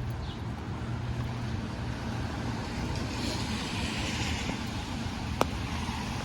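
Light rain falling on an umbrella and a wet street, with a car passing on the wet road, its tyre hiss swelling in the middle. A single sharp click about five seconds in.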